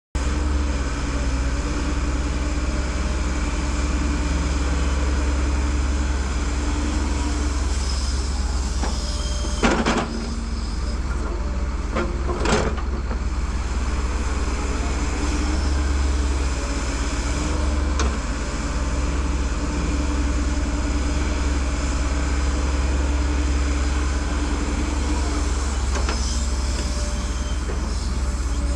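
Heavy earthmoving machine's engine running steadily, with a few sharp metallic knocks about ten and twelve seconds in.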